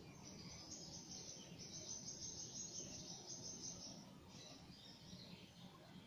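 Birds calling: a fast, high-pitched pulsed chirping for about the first four seconds, then fainter scattered calls, over a low steady background hum.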